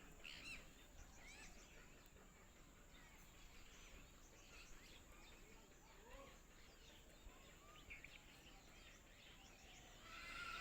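Faint chirping of several small birds, many short calls scattered throughout, over a quiet outdoor background.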